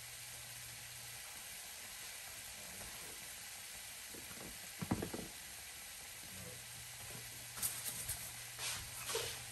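Ground beef and onions sizzling in a frying pan, a steady hiss. A few sharp knocks about five seconds in and a cluster of clicks and clatters near the end stand out above it.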